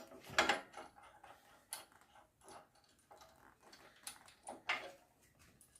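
Metal hand tools clinking and tapping: a scatter of irregular sharp clicks and knocks, the loudest shortly after the start and again near the end, as tools such as spanners or sockets are handled and tried on a 17 mm fastener.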